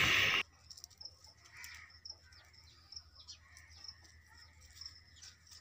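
Faint chirping of small birds, short high chirps repeating every half second or so. A louder sound cuts off sharply about half a second in.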